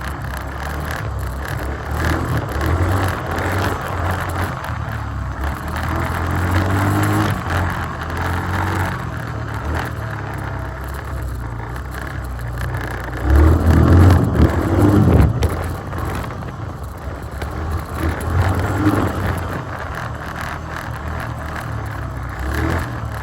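2021 Yamaha Grizzly 350 quad bike's single-cylinder four-stroke engine revving up and down as it is ridden hard on a dirt track, loudest in a stretch of hard revving about 13 seconds in.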